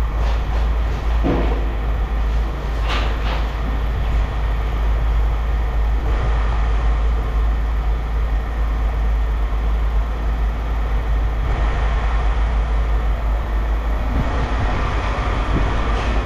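Steady low rumble of heavy machinery running, with a couple of brief higher squeaks in the first few seconds.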